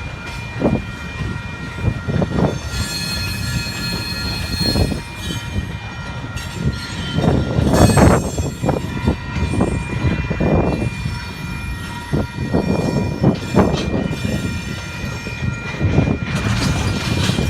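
Freight train cars rolling along the rails with a low rumble. Thin, steady high-pitched wheel squeal runs throughout, broken by irregular metallic clanks and thumps; the heaviest come about eight seconds in and near the end.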